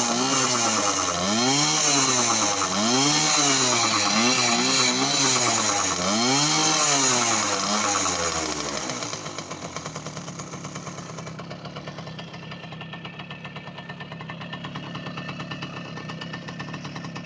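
Two-stroke engine of a Soviet Delta moped, fitted with a 39.5 mm Dio piston, revved up and down over and over, then settling to a steady idle about nine seconds in. It runs cleanly, which the owner calls ideal.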